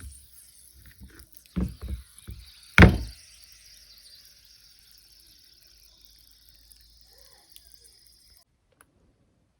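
Chalky clay being bitten and crunched in the mouth: a few sharp crunches between about one and a half and three seconds in, the last the loudest. After that there is only a faint hiss.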